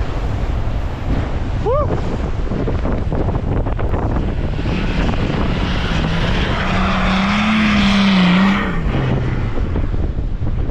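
A vehicle engine running amid low rumbling wind noise. About halfway through, its note climbs and swells louder, then falls away near the end.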